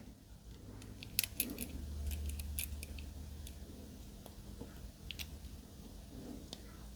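Faint scattered clicks and light taps of small model car kit parts being handled and fitted.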